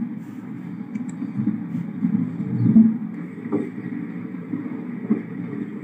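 Passenger train running, heard from on board: a steady low rumble with a few short knocks.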